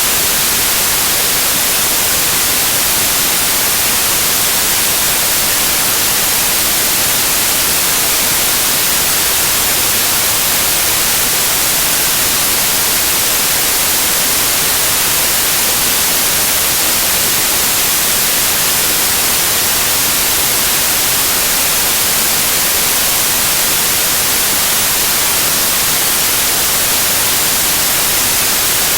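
Loud, steady white noise: an even hiss with most of its energy in the high frequencies, unchanging throughout.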